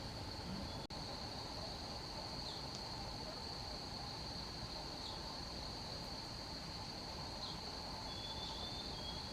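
Forest ambience dominated by insects trilling in one steady, high-pitched drone, with a few faint short chirps over it.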